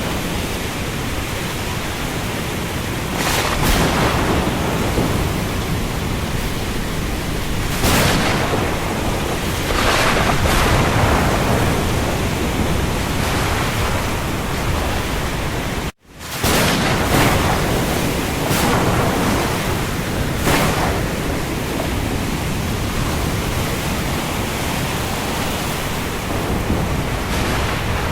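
Steady heavy rain over the sea, a dense hiss with louder swells of wind and surf every few seconds. About halfway through, the sound cuts out for a split second and comes back.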